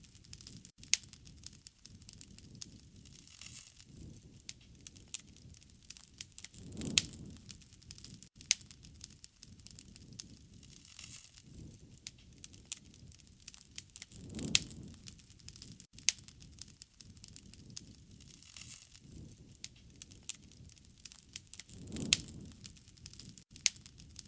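Wood fire crackling and popping with sharp snaps, under a low soft rush that swells and fades about every seven and a half seconds.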